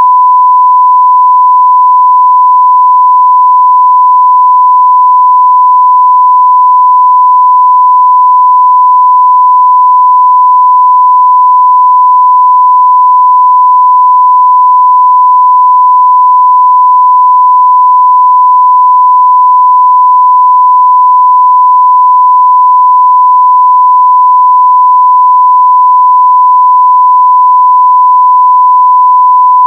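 A continuous, steady 1 kHz sine-wave test tone at full level, unbroken and unchanging in pitch and loudness.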